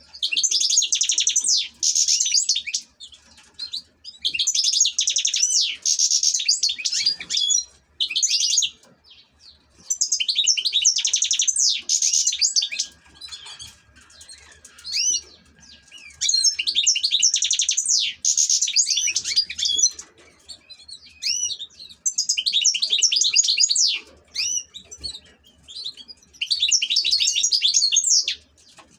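European goldfinch singing: bursts of rapid, high twittering and warbling phrases, each one to three seconds long, repeated about seven times with short pauses between.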